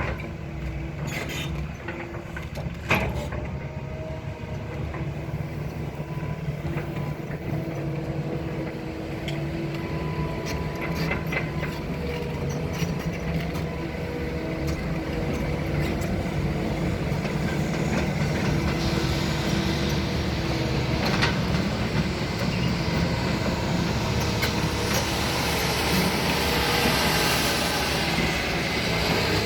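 Excavator's diesel engine running steadily as it digs, with a few sharp metallic knocks near the start. The engine and hydraulics grow louder and hissier through the second half.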